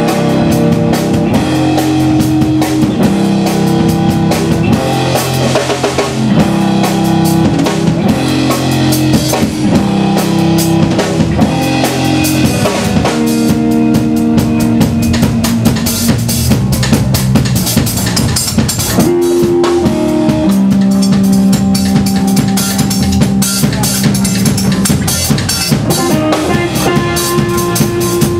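Live blues band playing: a drum kit keeping a steady beat under electric guitar and bass.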